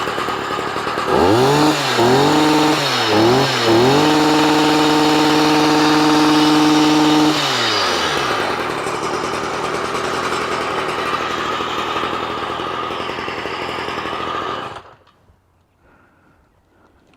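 Stihl MM55C tiller's small two-stroke engine, running on a replacement carburetor: revved up and down in three quick blips, held at high revs for a few seconds, then dropped back to a steady idle and cut off suddenly near the end.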